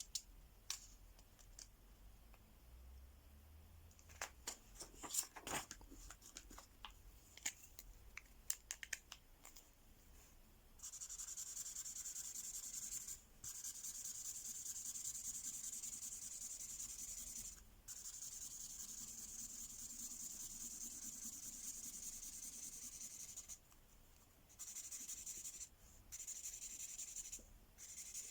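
Mystery Ink marker scratching back and forth on paper in long colouring strokes. The strokes start about eleven seconds in and stop briefly several times. Before them come scattered light clicks and taps of handling.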